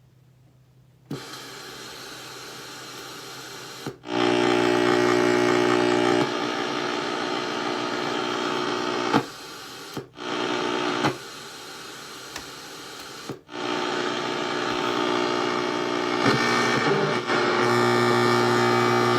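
An old boombox's speaker putting out loud static noise with a steady hum. It cuts out and back in abruptly several times, with a click at some of the breaks.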